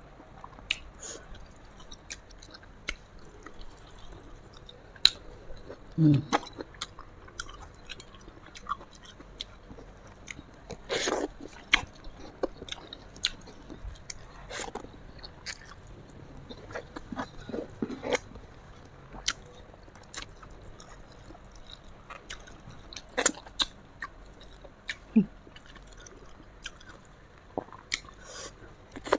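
A person chewing and biting food close to the microphone: irregular short crunches and wet mouth clicks, with a few louder bites, one of them longer, about eleven seconds in.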